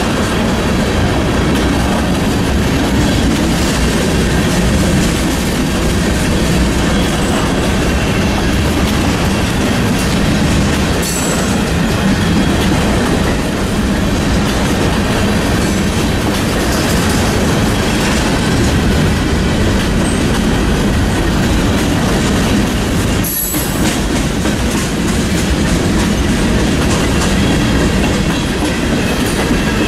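A CSX freight train's cars (tank cars, covered hoppers and boxcars) rolling steadily past close by, their wheels running over the rails in a continuous loud rolling noise.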